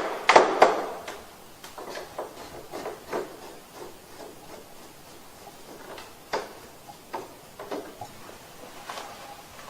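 Scattered light clicks and taps from a screwdriver and hands on the plastic casing of a wall-mounted air conditioner indoor unit as the exposed top screws are removed, with a few sharper knocks now and then.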